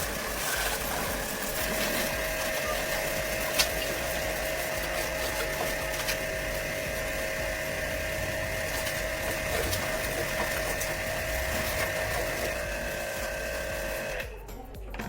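A small motor running with a steady whine, stopping abruptly near the end, with a single sharp click a few seconds in.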